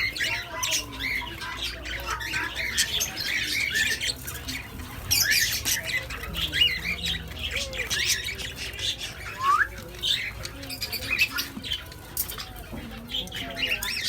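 A group of white doves calling all at once: a dense, constant chatter of short high-pitched squeaks and squawks, with some lower calls underneath.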